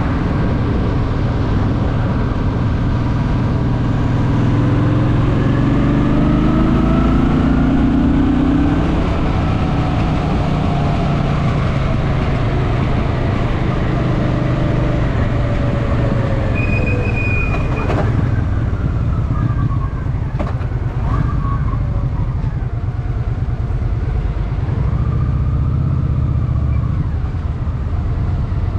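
Honda Shadow VT750's V-twin engine running while riding, its pitch rising as it accelerates a few seconds in, then settling into steady cruising. A sharp click about two-thirds of the way through.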